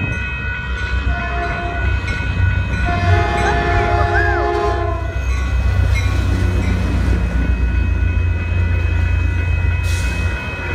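Caltrain diesel commuter train passing with a steady low engine rumble. Its multi-note air horn sounds briefly about a second in, then again for about two seconds.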